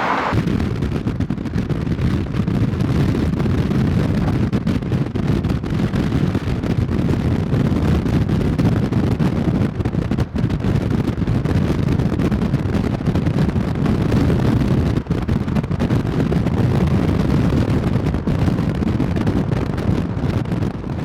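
Wind buffeting the microphone: a steady low rumble with no distinct sounds in it, fading out near the end.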